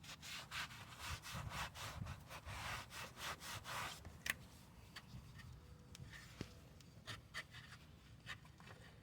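Quick wiping strokes of a rag, about three a second, cleaning spilled oil from around the newly fitted oil filter. After about four seconds the wiping stops, leaving a few faint clicks and taps.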